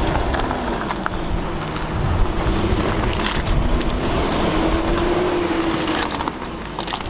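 Vintage 4x4's engine running with its pitch wandering up and down, mixed with wind on the microphone.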